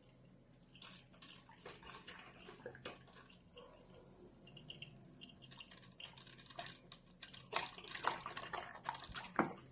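Melitta Aromaboy drip filter coffee maker brewing: faint, irregular drips and small ticks of coffee falling into the carafe, more frequent in the last two seconds.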